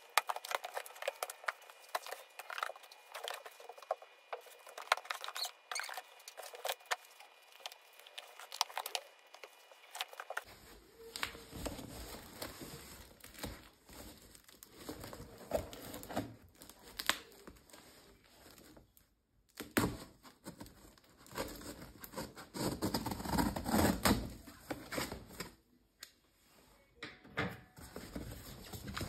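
Household items being handled and put away: a run of small clicks, taps and knocks with rustling between them, fuller and heavier after about ten seconds.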